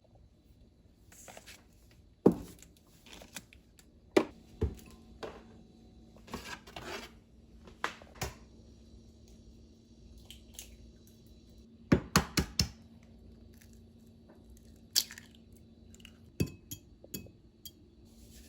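Objects being handled: scattered sharp knocks and clicks, including a quick run of four about two-thirds of the way in, with short rustling and scraping between them over a faint steady hum.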